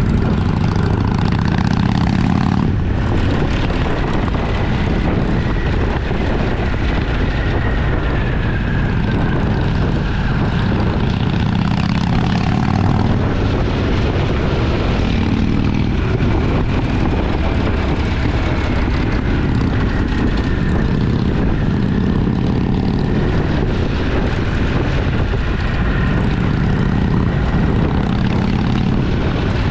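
Twin-cylinder motorcycle engine running steadily while riding at speed, a constant low drone.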